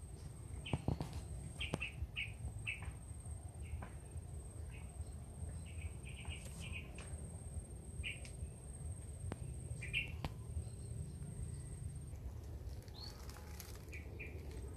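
Short bird chirps, repeated at irregular intervals, over a low steady rumble.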